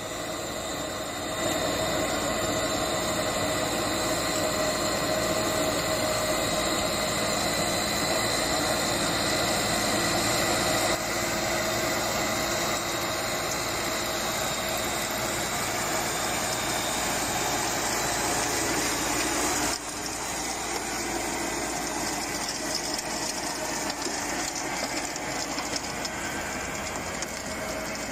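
Rubber-tracked crawler tractor's engine running steadily. The sound shifts abruptly about 11 seconds in and drops in level about 20 seconds in.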